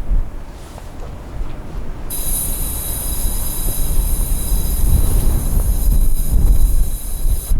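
Railway wagon wheels squealing as a train rolls through the station: a steady, high squeal of several tones that starts about two seconds in and cuts off sharply at the end, over a low rumble of wind buffeting the microphone.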